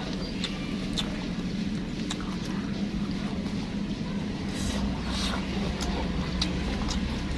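Chewing raw lettuce: scattered soft crunches and mouth clicks, over a steady low hum that grows louder about two-thirds of the way in.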